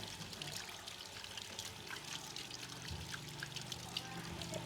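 Running water trickling and splashing, with many small irregular drips and spatters, over a low steady hum.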